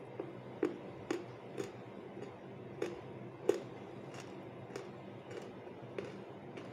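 Crisp crunches of someone chewing a piece of roasted clay, about eleven bites in a steady rhythm of roughly one every half second or so, the loudest about three and a half seconds in.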